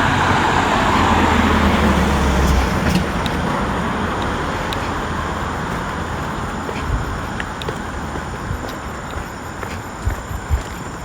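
A motor vehicle passing by, engine and tyre noise loudest in the first couple of seconds, then fading away.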